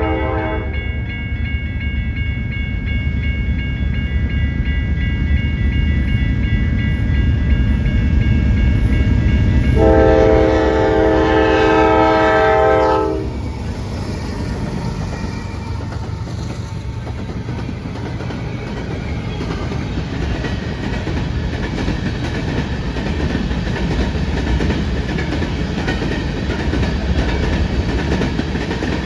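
Train led by a Norfolk Southern diesel locomotive passing, with a steady low rumble of engine and wheels. A horn blast cuts off just as it begins, and a second horn blast of about three seconds comes about ten seconds in. After the horn, the cars roll by with a lighter clatter on the rails.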